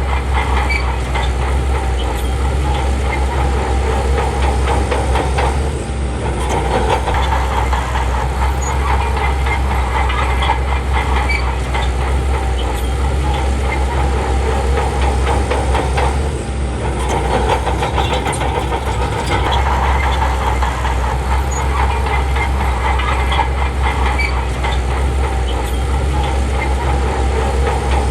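Bulldozer's diesel engine running steadily under work, with a continuous rattling clatter from its steel tracks. The sound dips briefly twice, about 6 and 16 seconds in.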